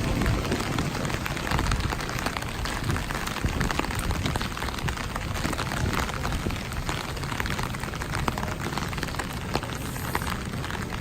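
Steady rainfall: a constant hiss with many small, sharp drop ticks.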